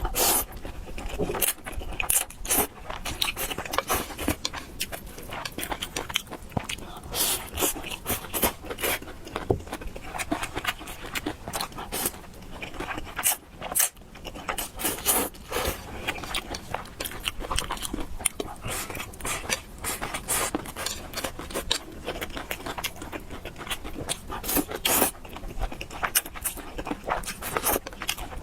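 A person eating spicy fried noodles close to the microphone: chewing with many irregular wet mouth clicks and smacks.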